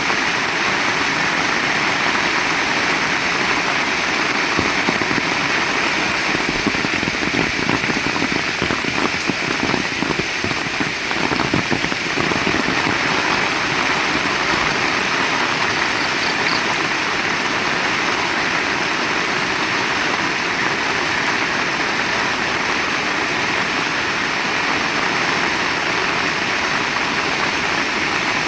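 Heavy rain falling steadily, a dense, even hiss of downpour, with a rougher spell of closer drops around ten seconds in.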